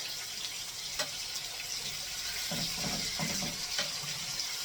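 Chicken breasts sizzling in hot olive oil in a skillet, a steady hiss, with a couple of sharp clicks as the pieces are turned.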